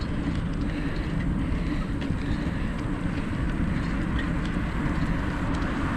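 Steady low rumble of a bicycle rolling along a trail: tyre and frame noise picked up by the riding camera.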